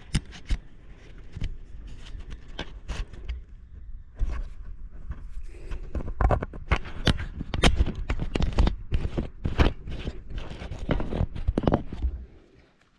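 Irregular knocks, clicks and scrapes of hands handling hardware, with heavy thumps, dying away near the end.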